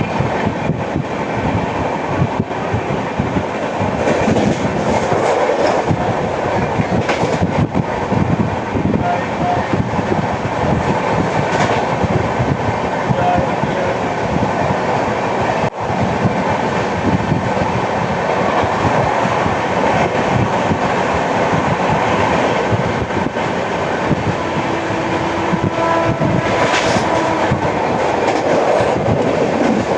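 Coaches of the 12810 Howrah–CSMT Mail express running on track, heard from on board. The wheels give a steady rumble with clickety-clack over the rail joints, which the uploader presents as flat-wheel sound. A brief hiss comes about 7 seconds in and again near the end.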